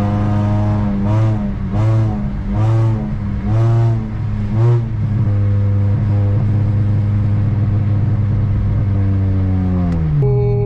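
Honda Civic's 1.7-litre four-cylinder engine droning steadily from inside the cabin at highway speed, with music playing over it from the car stereo in the first half. Near the end the engine note falls as the car slows.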